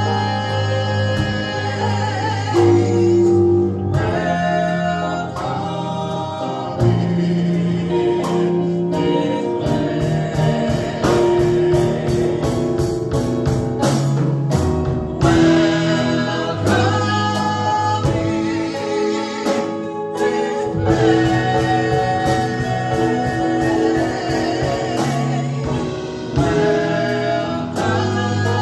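Gospel praise band and choir performing a worship song: massed voices singing over bass and drums with a steady beat.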